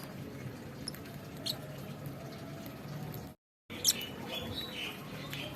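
Lovebirds making short squeaky chirps and sharp little clicks over a low steady hum, with a brief cut to silence a little after three seconds in; the chirping is busier after the cut.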